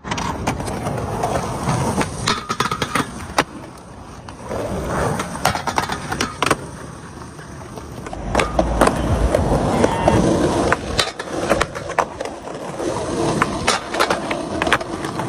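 Skateboard wheels rolling over pavement, with repeated sharp clacks and knocks from the board and trucks, and a louder low rumble about halfway through.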